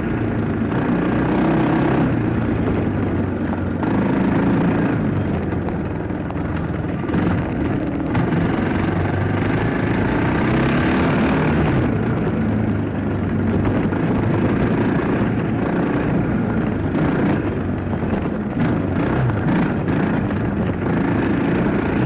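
Dirt bike engine running under way, its revs rising and falling, with a few knocks later on.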